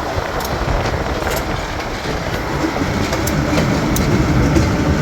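GE U23B diesel-electric locomotive running as it moves along the track. The low engine rumble builds toward the end, with scattered sharp high clicks from the running gear.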